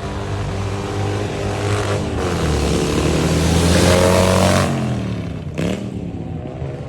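Car engine revving hard. Its pitch rises and the sound swells to its loudest about four seconds in, with a rushing hiss, then it drops away.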